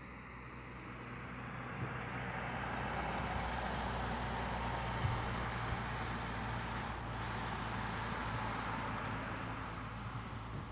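A road vehicle passing by, its noise building over about five seconds and then slowly fading, with a steady low engine hum underneath.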